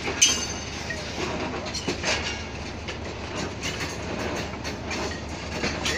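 A passenger train moving along the track, its wheels and coaches rattling with irregular clicks and knocks over a steady rumble.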